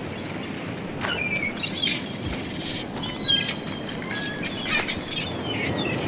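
Small birds chirping and twittering in short, gliding calls, over a steady rushing background noise, with a few sharp knocks.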